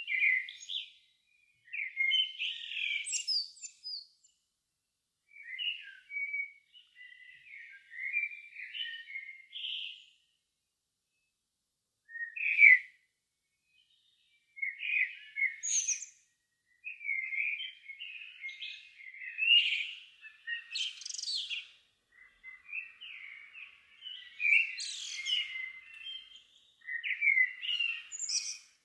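Songbirds singing in the evening: a string of short warbling and chirping phrases, each a second or a few seconds long, with brief pauses between them and some high sharp notes mixed in.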